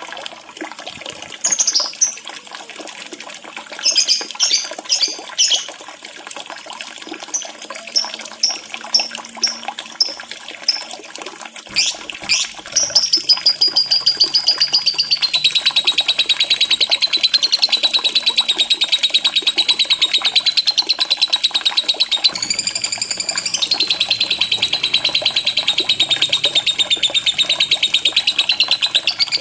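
Lovebird calls over a steady trickle of running water. Short high chirps come first, then from about halfway a long, rapid, unbroken high trill, the lovebird's extended chatter. The trill breaks off briefly about three-quarters of the way through and then resumes.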